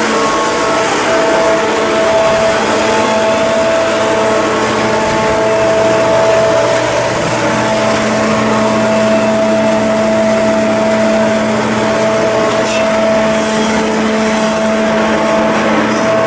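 Machinery running steadily: a loud, even noise with a constant hum.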